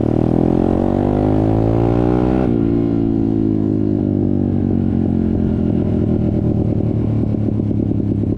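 Motorcycle engine accelerating with a rising pitch, then a gear change about two and a half seconds in, after which the engine note drops and slowly falls away.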